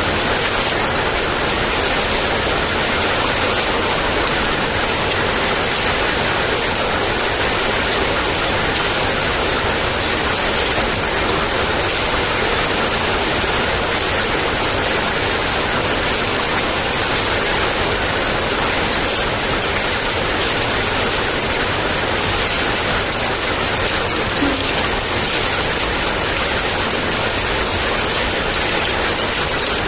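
Heavy rain pouring down steadily, an even hiss of falling water with no breaks.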